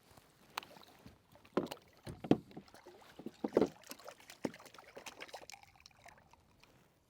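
Irregular knocks and bumps on a fishing kayak while a freshly landed thornback ray is handled aboard, about half a dozen over several seconds, the loudest a little past two seconds in.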